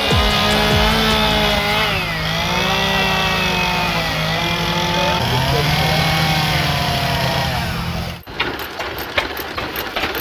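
An engine running, its pitch dipping and climbing back twice, over a steady low hum; it cuts off suddenly about eight seconds in, followed by scattered knocks.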